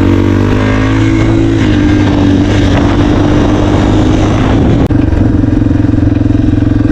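Dirt bike engine running loud and steady at an even speed while being ridden.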